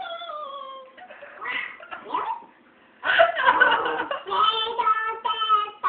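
High-pitched laughing and giggling voices, with a short pause about halfway through.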